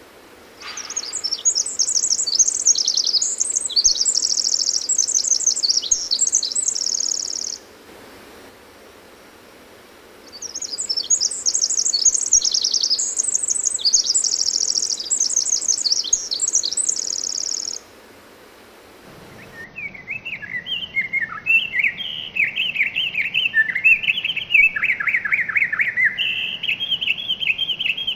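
Pacific wren singing: two long songs of rapid, high trills and twitters, each about seven seconds, with a short pause between. In the last third a song of the same pattern sounds at about half the pitch.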